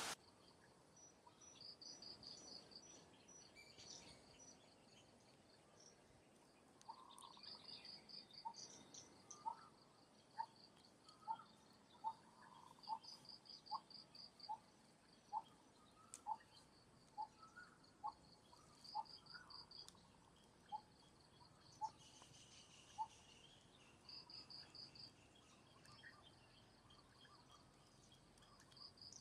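Faint outdoor ambience: insects trilling in short, high, pulsed bursts every few seconds. From about eight seconds in, a string of short, evenly spaced call notes comes roughly two a second, stopping a few seconds before the end.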